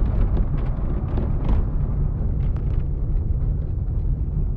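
Steady low rumble of a moving car: road and wind noise.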